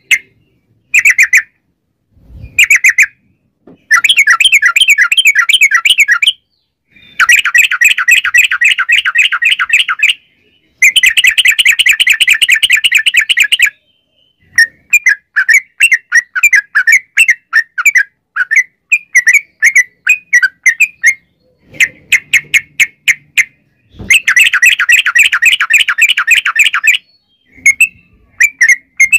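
Yellow-vented bulbul (trucukan) song: loud, fast chattering rolls of two to three seconds at a time, broken by abrupt silent gaps and looser strings of separate notes.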